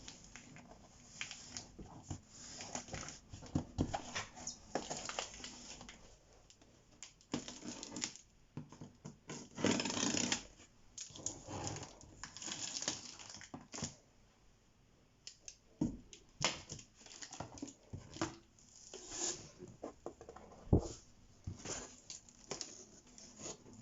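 A cardboard shipping box being opened and unpacked by hand: irregular rustling, scraping and tearing of cardboard and packing material, with scattered knocks and clicks.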